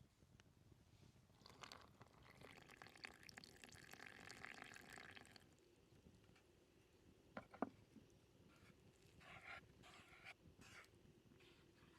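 Faint liquid pouring for a few seconds, starting about a second and a half in, as for focaccia dough. It is followed by a light knock and a few soft handling sounds, all very quiet.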